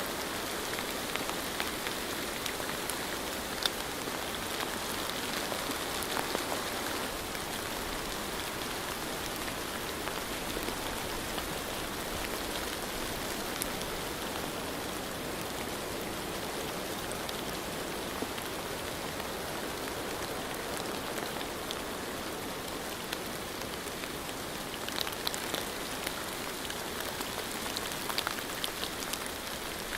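Steady rain falling, an even hiss with scattered close drop ticks, a few brief clusters of louder drops near the end.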